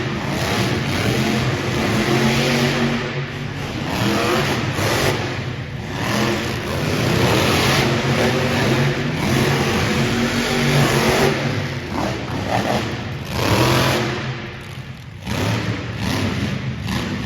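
Monster truck engines revving hard and surging up and down in pitch as two trucks race side by side, with a brief drop in engine noise near the end before they rev again.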